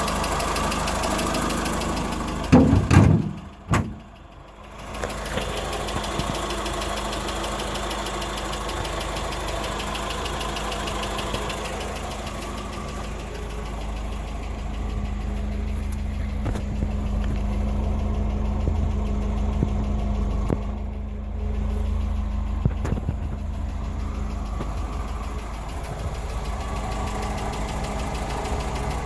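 Mk4 Ford Escort 1.3's engine idling steadily. A few loud thumps come about three seconds in, followed by a brief dip in the sound.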